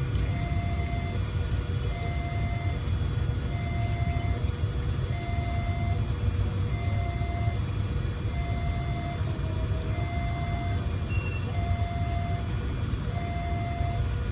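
Railway level-crossing warning alarm sounding two alternating electronic tones, each held a little under a second and repeating steadily, over a low steady rumble of waiting vehicles' engines.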